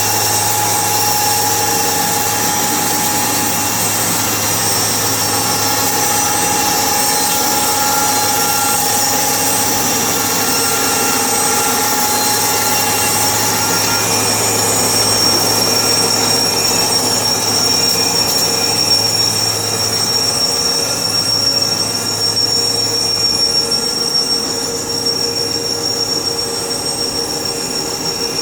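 Sawmill machinery running continuously, with a steady high whine over a lower machine hum; the low hum drops away about twenty seconds in.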